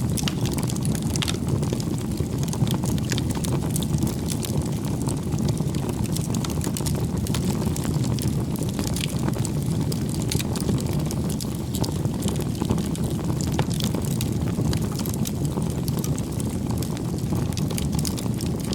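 Steady low rumbling noise, even in level throughout, with faint light ticks over it.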